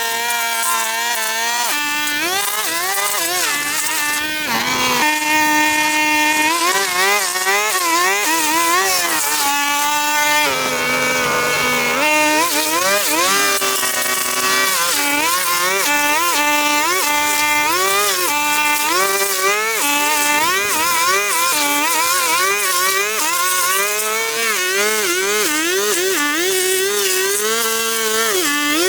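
A small two-stroke engine, like a string trimmer's, running continuously, its pitch rising and falling over and over as the throttle and the load change while it cuts through overgrowth.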